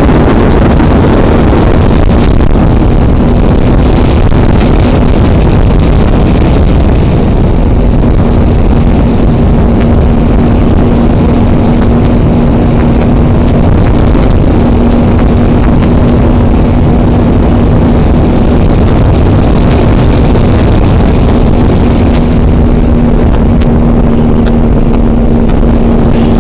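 Aprilia RS 125 two-stroke single-cylinder motorcycle engine running at a mostly steady pitch under a heavy rush of wind noise, as picked up by a helmet-mounted action camera while riding.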